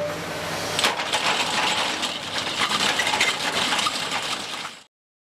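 Alpine TC-E rock grinder's rotating cutting drum grinding hard limestone: a dense crackle and crunch of picks chipping rock, over the steady hum of the Komatsu PC390 excavator's engine and hydraulics. The sound cuts off suddenly near the end.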